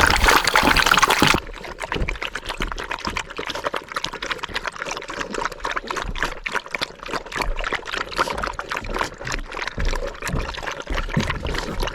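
A brief rush of pouring liquid, cut off sharply about a second and a half in. Then a stew of beef and broth boils in a cast-iron cauldron, bubbling with a dense run of small, quick pops.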